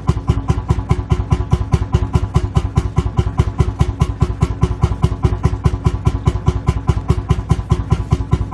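Lanz Bulldog tractor's single-cylinder two-stroke hot-bulb engine idling, a steady, even thumping of about six beats a second.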